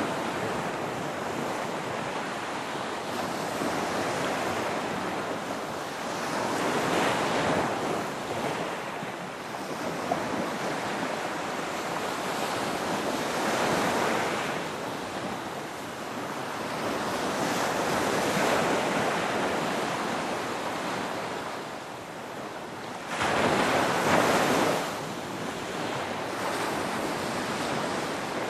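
Ocean waves breaking and washing in, a steady rush that swells and eases every several seconds. One louder wave breaks suddenly near the end.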